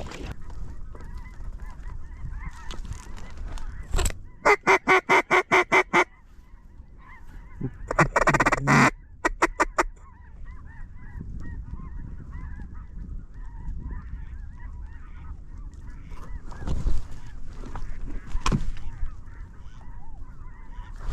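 Geese and ducks calling on the water, a steady faint chatter of honks and quacks. About four seconds in comes a loud, rapid run of about eight calls, and a longer call follows near nine seconds.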